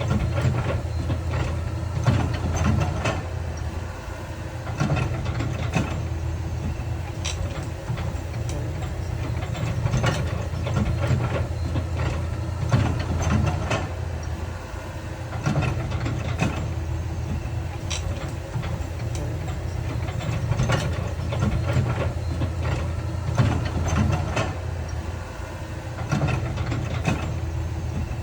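Heavy diesel earthmoving machinery running steadily, with irregular sharp clanks and knocks of metal and rock throughout.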